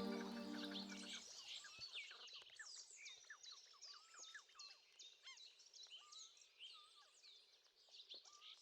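Faint chorus of small birds chirping and twittering, many quick overlapping calls. Soft music fades out about a second in.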